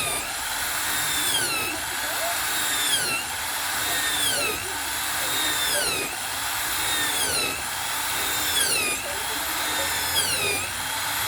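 Electric power tool motor running continuously, its whine dipping in pitch and recovering about every one and a half seconds, as if loaded and released in a steady rhythm.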